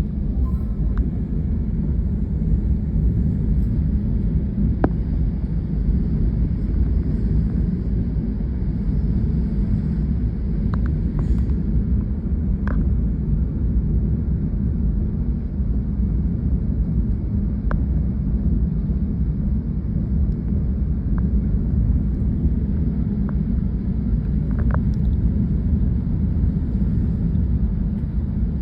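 Steady low rumble of the flooded Godavari River's rushing water, with a few faint clicks.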